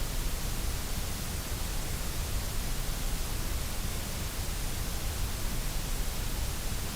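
Steady white noise: an even, unchanging hiss across the whole range.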